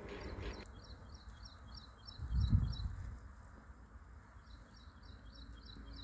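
A small bird chirping a quick series of short high notes, about four a second, in two runs with a pause between. A brief low rumble of wind on the microphone swells about two and a half seconds in.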